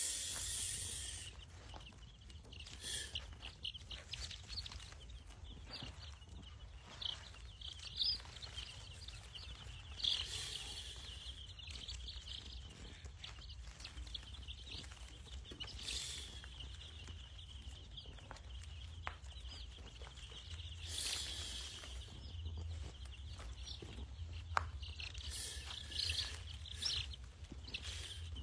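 A flock of young chicks peeping continuously in a brooder, with louder bursts of high calling every few seconds over a steady low hum.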